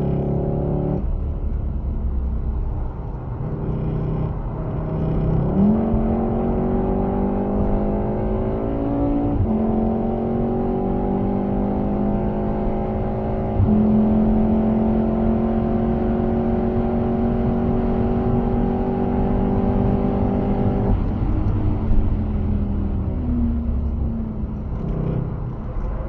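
VW Golf VII R's turbocharged four-cylinder engine, heard from inside the cabin, accelerating hard through the gears. The engine note climbs in pitch, drops sharply at two upshifts, then holds a high steady note. It falls away as the throttle comes off about three-quarters of the way through, with a brief rise near the end. Road and tyre noise runs underneath.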